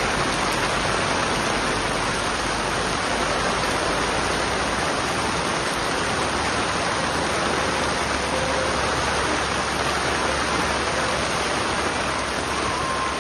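Steady rain falling, an even, continuous hiss of rain.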